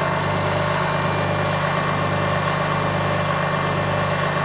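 High-voltage impulse motor (the 'Liberty engine') running steadily with an even hum, no change in speed or level; the builder calls this self-sustaining, autonomous running.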